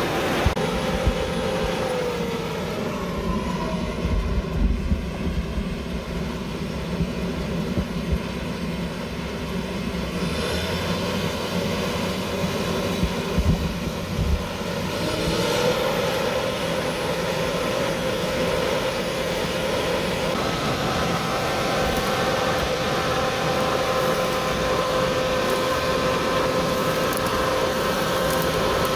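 John Deere W540 combine harvester running at harvest: a steady engine and machinery drone with whining tones that shift in pitch a couple of times, and a few low knocks.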